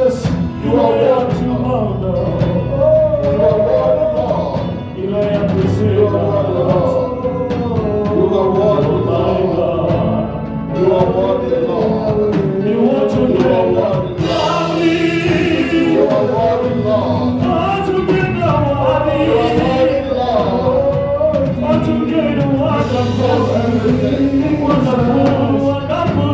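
Live gospel worship music: a group of singers carrying a sung melody over steady low instrumental notes.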